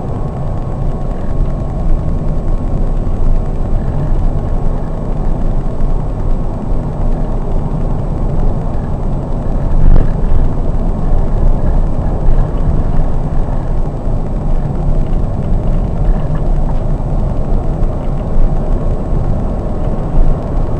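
Steady rumble of a Scania K420 double-decker coach on the move, heard from the driver's position: road and engine noise, mostly low-pitched, with a faint steady whine throughout. A single click comes about ten seconds in.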